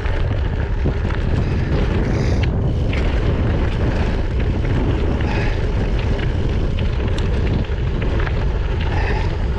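Wind buffeting a GoPro action camera's microphone on a moving bicycle: a steady, loud rumble, with the rolling noise of the tyres and scattered small clicks and rattles of the bike underneath.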